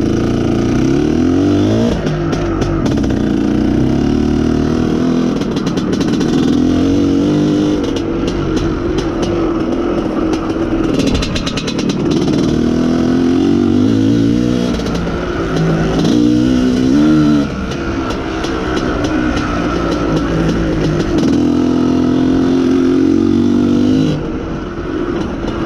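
IZh Planeta Sport's single-cylinder two-stroke engine being ridden hard, revving up and dropping back repeatedly through gear changes. Its mixture screw has just been backed out a little to richen a lean mixture, and it pulls strongly.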